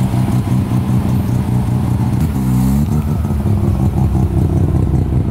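Mazda RX-7 FC's 13B rotary engine running as the car rolls slowly past close by, with a short dip and rise in engine pitch a little over two seconds in.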